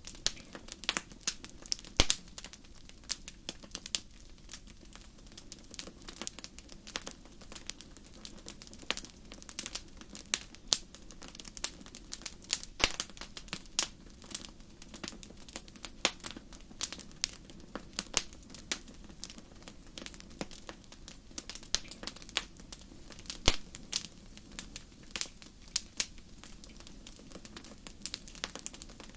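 Wood fire crackling in a fireplace: irregular sharp pops and snaps, several a second, with a few louder cracks, over a steady low rush of the flames.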